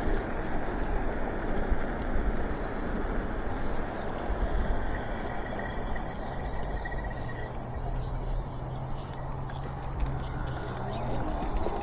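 Wind and road noise of an electric bike being ridden: a steady rush on the action camera's microphone. A low steady hum joins about halfway through and stops shortly before the end.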